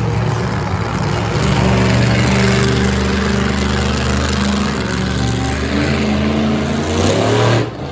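Extreme King Sling monster truck's engine running hard under throttle, its pitch shifting up and down, then backing off sharply near the end.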